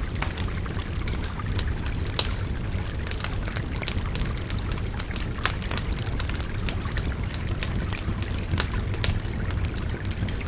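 Wood fire crackling with frequent, irregular sharp pops over the steady babble of a river.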